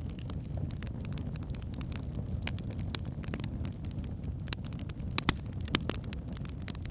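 Logs burning in a fireplace: a steady low rumble of flames with irregular sharp crackles and pops, the loudest a little after five seconds in.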